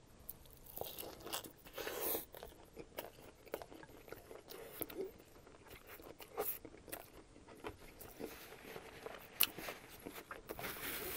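Biting into a copycat KFC Double Down made of breaded fried chicken, then chewing it, with irregular crisp crunches of the fried coating.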